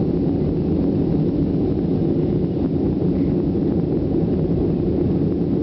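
Ryanair airliner's jet engines and airflow heard from inside the cabin during the takeoff climb: a steady, loud low roar.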